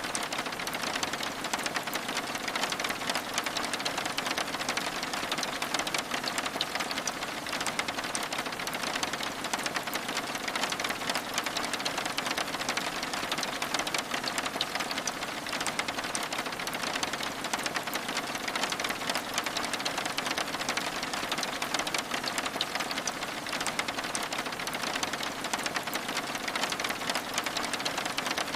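Steady rain on window glass: a dense, even patter of many small drops.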